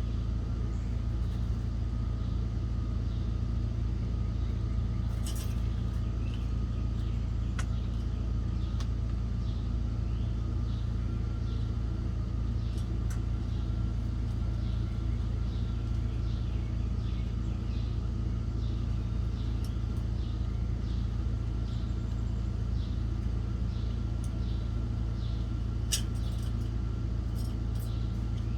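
Small birds chirping repeatedly in short high notes over a steady low rumble.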